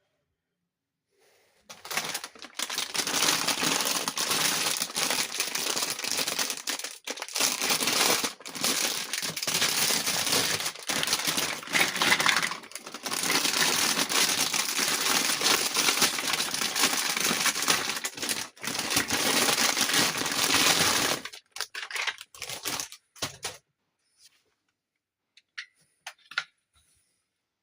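Crinkly packaging being handled and unwrapped by hand. The crinkling starts about two seconds in and runs for some twenty seconds with a few brief breaks, then gives way to a few light clicks.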